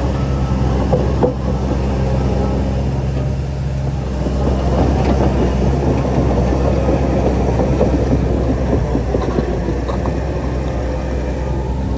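Heavy diesel earthmoving machinery running steadily, a low engine drone under a dense rattling clatter, with one sharp knock about a second in.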